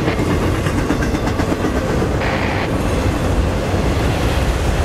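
CSX autorack freight cars rolling past close by: a loud, steady rumble and clatter of steel wheels on the rails. A short higher hiss comes about two seconds in.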